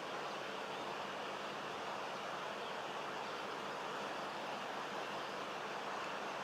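A steady, even rushing noise that does not change, with no bird calls or other distinct sounds.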